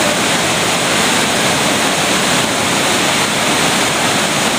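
Waterfall on the Cuyahoga River: a loud, steady rush of falling water.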